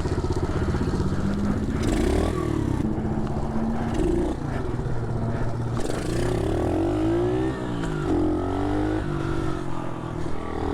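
SSR 110cc pit bike's single-cylinder four-stroke engine being ridden, its note climbing and dropping several times as the throttle is worked.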